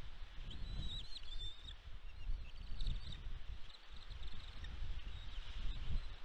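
Wind buffeting the microphone, with faint, high, chirping bird calls in the first two seconds and a few more about three seconds in.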